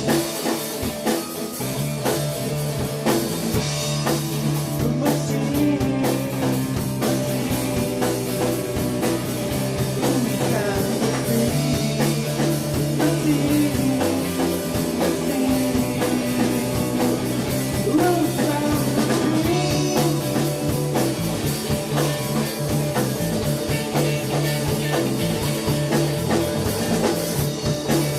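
A rock band playing live: drum kit, bass and electric guitars, with some singing.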